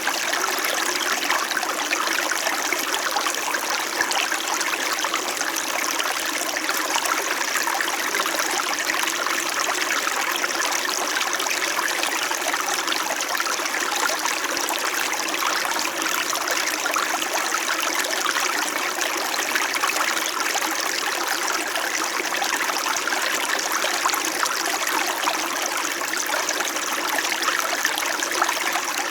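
A small mountain stream babbling and trickling over rocks, a steady, even flow of water.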